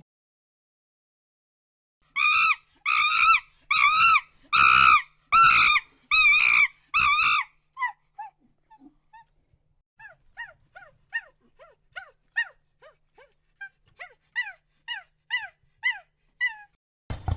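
An animal's high-pitched yelping calls: about eight loud, evenly spaced yelps, then a run of fainter, shorter calls that each drop in pitch.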